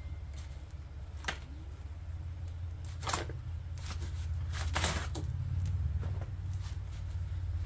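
Side cutters snipping zip ties off a boxed e-bike: three sharp clicks about two seconds apart, the last with a rustle of plastic packing. A steady low rumble runs underneath.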